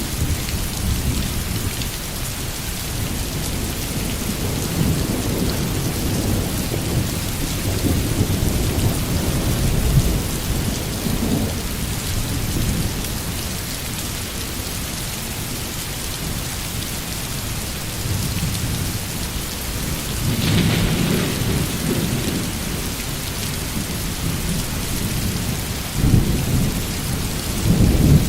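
Steady heavy rain falling, with thunder rumbling low and rolling in swells throughout. A brighter crackle comes a little past two-thirds of the way in, and a sharper, louder clap near the end.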